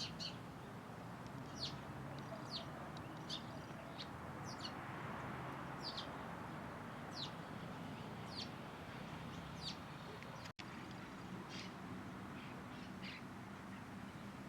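A bird repeatedly giving short, high, sharply falling chirps, about one a second, over a steady background rumble; the sound drops out for an instant about ten seconds in.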